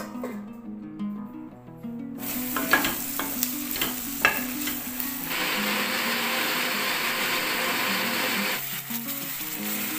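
Food frying in a pan: sizzling that starts a couple of seconds in, with a few sharp clicks, then turns loud and dense for about three seconds before cutting off.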